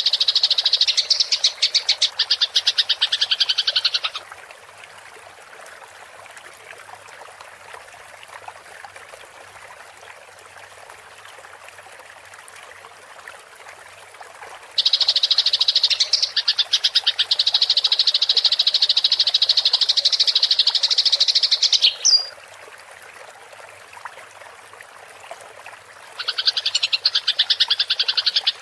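Eurasian tree sparrow giving its fast, rolling fighting chatter in three long bouts: until about four seconds in, again from about fifteen to twenty-two seconds, and from about twenty-six seconds on. In the pauses there is a faint, steady hiss of running water.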